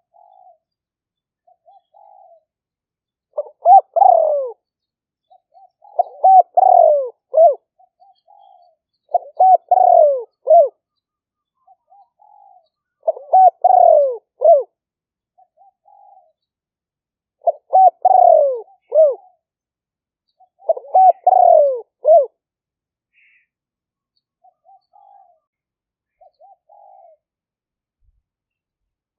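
Spotted dove cooing over and over: six loud phrases of several coos each, about three to four seconds apart, with soft single coos in between.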